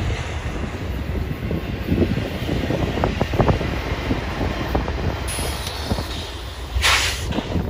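Freight train rolling past close by: a steady low rumble with irregular clacks of steel wheels over the rail joints. Near the end there is a short, loud hiss.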